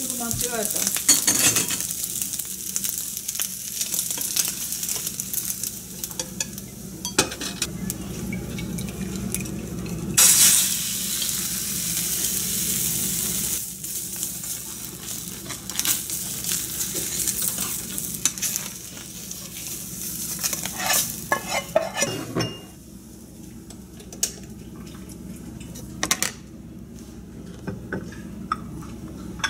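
Egg and fried rice sizzling in a hot nonstick frying pan, with chopsticks and utensils scraping and clicking against the pan. The sizzling surges louder about ten seconds in and drops away a little after twenty seconds, leaving scattered clinks of dishes.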